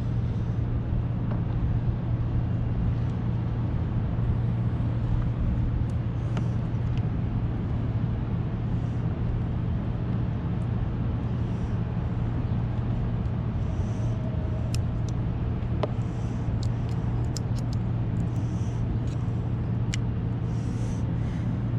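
A steady low hum runs throughout, with a few light clicks and taps of small parts being handled.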